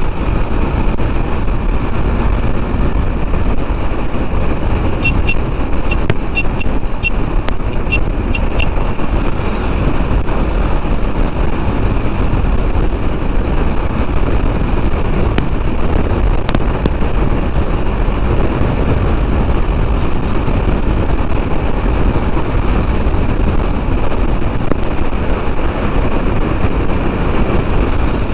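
Riding noise from a KTM 390 Duke motorcycle: steady wind rush on the microphone over the single-cylinder engine and road noise. About five seconds in, a run of short high beeps lasts for some four seconds.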